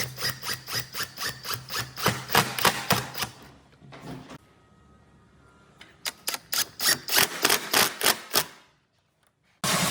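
Rapid, regular knocks, about four a second, over a low steady hum; they pause for about two seconds in the middle and stop shortly before the end. A steady machine starts running right at the end.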